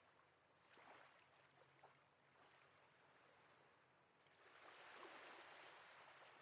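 Near silence with very faint sea waves washing against a harbour wall, swelling softly about a second in and again around five seconds.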